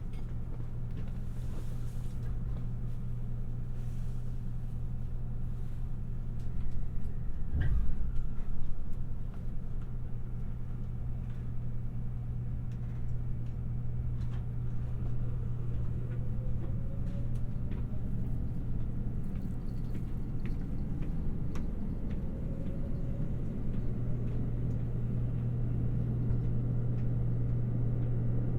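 Cabin of an electric express train: a steady low hum and rumble, a single loud thud about eight seconds in, then faint rising motor whines as the train pulls away and gathers speed.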